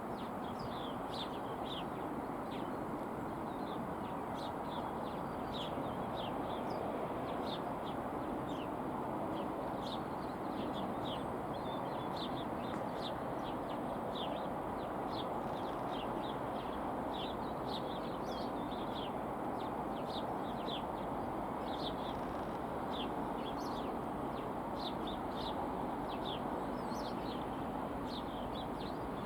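Small birds chirping repeatedly in short, quick calls over a steady background noise.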